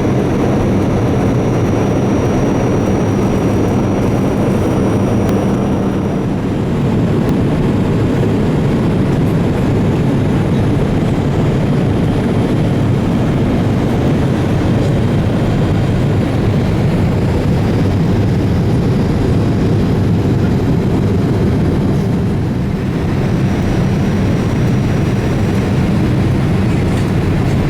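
Loud, steady cabin noise of a Boeing 787-8 in flight: its General Electric GEnx-1B engines and the airflow, with a low, even hum underneath.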